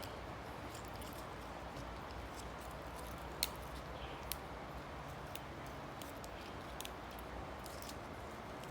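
A person eating boat noodles, chewing, with a few scattered sharp clicks; the loudest click comes about three and a half seconds in.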